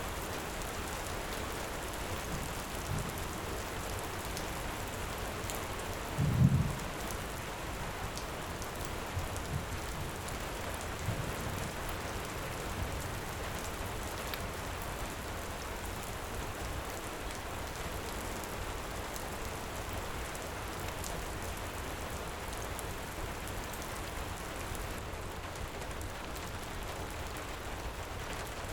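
Steady heavy rain, with a short low boom of thunder about six seconds in and a few faint crackles from a wood fire.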